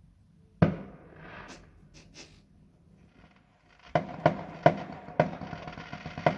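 Fireworks going off: a single bang about half a second in, faint hissing after it, then from about four seconds in a rapid run of bangs and crackles, several a second.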